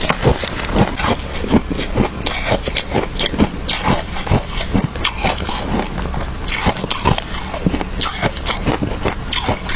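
Close-miked chewing of crunchy shaved ice with matcha: a dense, irregular run of crisp cracks and crunches.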